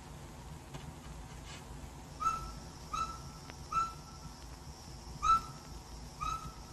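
A bird calling in five short whistled notes, unevenly spaced, each a brief clear note at one pitch.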